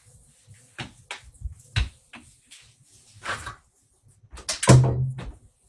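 A few short knocks and clicks of handling noise, the loudest near the end.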